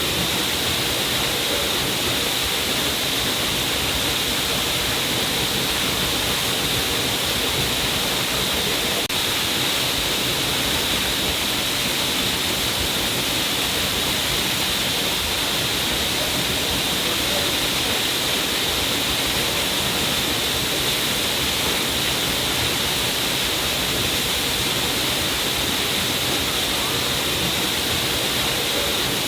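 A stream of water pouring down a cliff face: a steady, unbroken rushing hiss.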